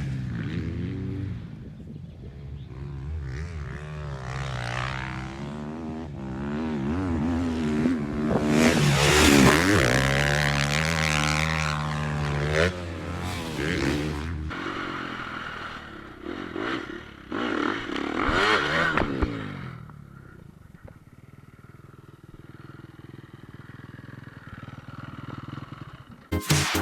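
Motocross bikes' engines revving on the track, rising and falling in pitch as they work through the gears and pass. The sound is loudest around a third of the way in and fades to a lower, steadier drone in the last few seconds.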